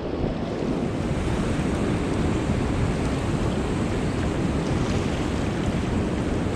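Steady rushing wind noise buffeting the microphone in gusty blizzard winds, with no pauses or distinct events.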